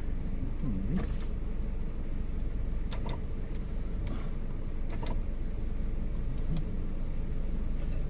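Steady low rumble of a moving motor vehicle and road noise, with a few sharp clicks or rattles scattered through.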